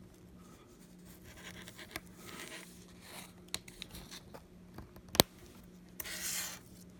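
Pry tool scraping and clicking against a first-generation iPad mini while prying up its glued-down LCD: soft scratching, a few small ticks, one sharp click about five seconds in, and a short scrape near the end.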